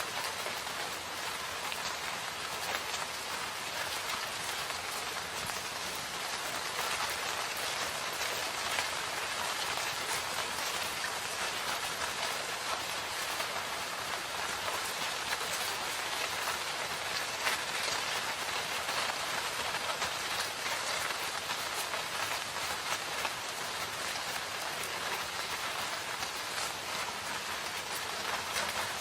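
Steady rain falling in a forest, a dense even patter of drops on leaves and ground.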